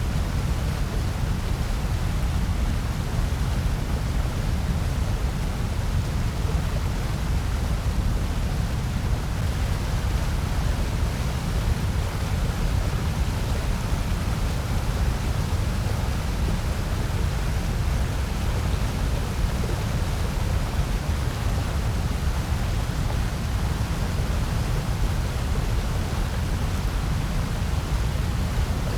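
Continuous electronically generated noise, steady and unchanging, with most of its weight in the deep bass under a fainter hiss.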